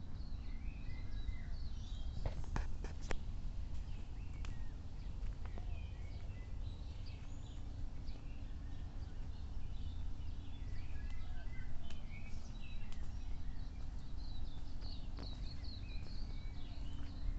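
Several small birds chirping and calling in short, scattered notes, over a steady low rumble, with a few sharp clicks a few seconds in.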